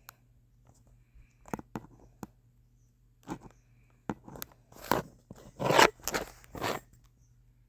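A series of irregular short taps and clicks, sparse at first, then closer together and louder in the second half.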